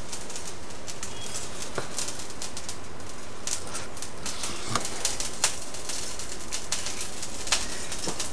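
Knife cutting fish fillet on a wooden cutting board: scattered sharp taps and clicks at irregular moments over a steady hiss.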